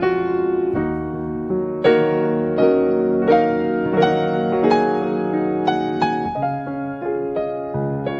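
Background piano music: a slow, gentle melody of single struck notes over sustained lower notes.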